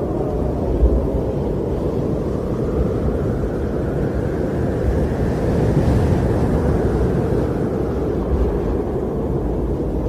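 Strong wind blowing with a deep, steady rumble, swelling a little in the middle and easing again.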